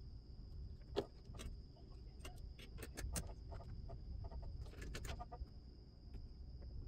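Faint scattered clicks and light taps of small parts being handled, over a steady faint high-pitched hum.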